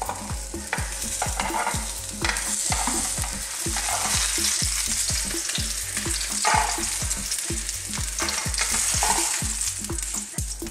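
Eggplant slices sizzling steadily in hot olive oil in a ridged grill pan, with a few knocks of metal tongs against the pan as the slices are turned.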